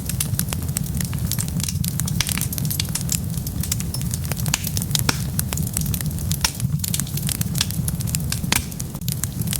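Wood fire burning with dense, irregular crackles and pops over a steady low rumble of the flames.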